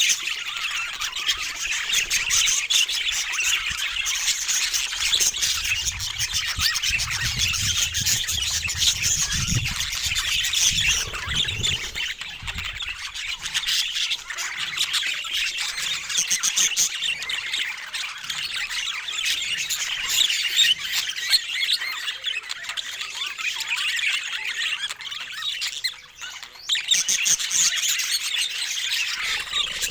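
Pet budgerigars chattering: a dense, continuous run of quick chirps, warbles and squawks, with a brief pause near the end.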